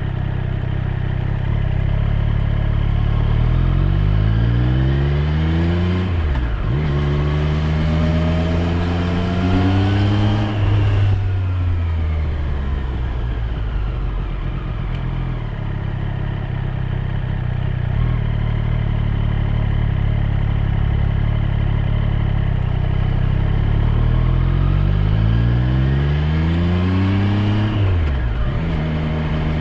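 Triumph Street Triple 765 R's inline three-cylinder engine under way, its pitch rising as it accelerates, dropping sharply at an upshift about six seconds in, then rising again. Around eleven seconds in the throttle closes and the engine settles to a steady run, then it rises and shifts up once more near the end.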